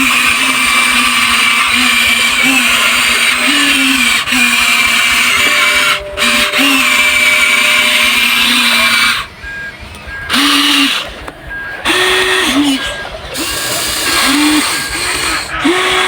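Huina 1593 RC excavator's small electric motors and gearboxes whining as the arm, bucket and tracks work, the pitch stepping up and down as functions start and stop. About nine seconds in the whine drops away, leaving short separate motor bursts.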